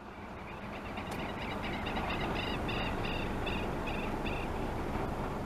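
A bird calling a run of short, repeated high notes, a few a second, for about three seconds, over a steady low outdoor rumble.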